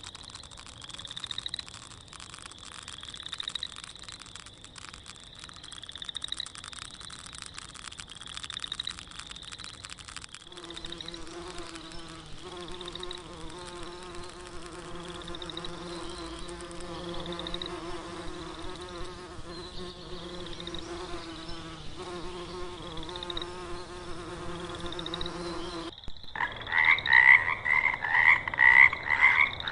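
Animal sounds in sequence: buzzing insects with a short rising chirp about every second, then a steady buzzing drone, then frogs croaking rapidly and loudly near the end.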